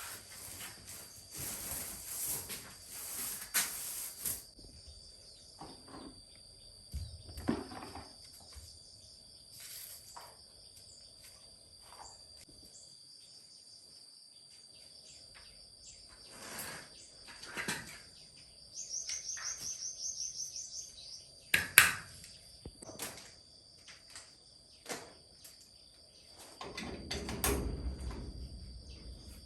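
Insects chirring steadily at a high pitch, with a short pulsed trill about two-thirds of the way through. Scattered knocks and clicks of things being handled run over it, with a sharp click about 22 seconds in and a low rumbling noise near the end.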